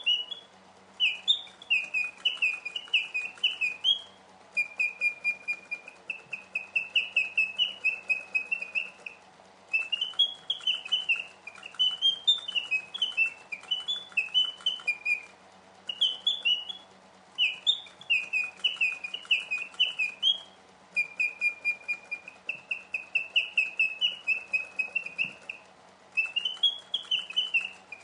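1950s German Eschle two-bird singing automaton whistling mechanical bird song. It plays phrases of quick chirps and trills, some gliding up and down and others a fast run on one note, broken by short pauses every few seconds.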